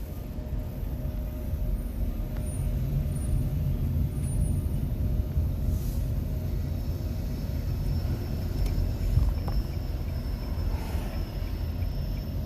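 Steady low road and tyre rumble inside the cabin of a moving 2021 Nissan Leaf electric car, with no engine note.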